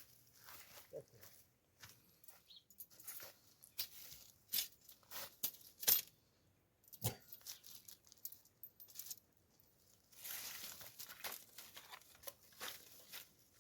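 Irregular crinkling and tearing handling noises in short strokes, with a sharper knock about seven seconds in.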